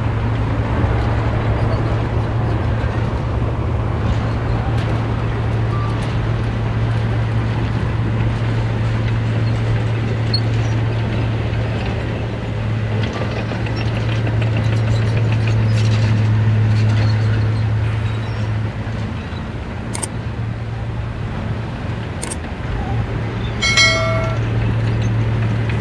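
Heavy diesel engine of earthmoving machinery running with a steady low drone, swelling louder around the middle. A brief high-pitched tone sounds near the end.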